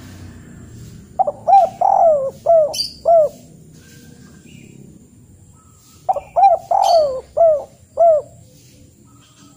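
A bird calling: two phrases of about five quick rising-and-falling notes each, roughly five seconds apart.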